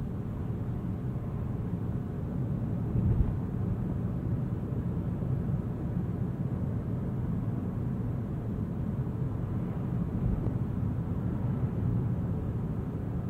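Car driving on a rain-wet road: a steady low rumble of tyres and engine, with a brief thump about three seconds in.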